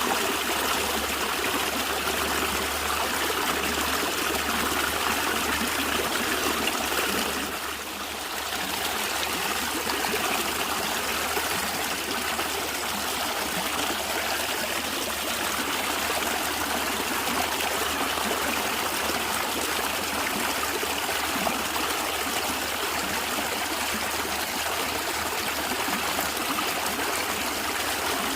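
Natural stream water running and gurgling in a steady, dense rush. It dips briefly in level about eight seconds in.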